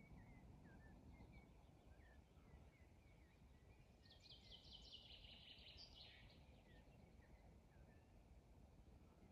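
Faint birdsong: scattered short chirps, with one brighter, rapid run of notes lasting about two seconds, starting about four seconds in, over a low steady background hum of outdoor noise.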